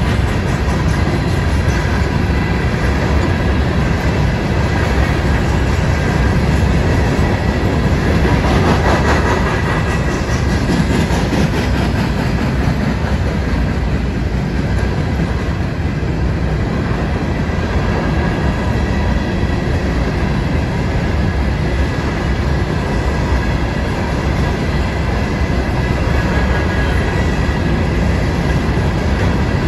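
Freight train cars, hoppers and boxcars, rolling past: a loud, steady rumble of steel wheels on the rails.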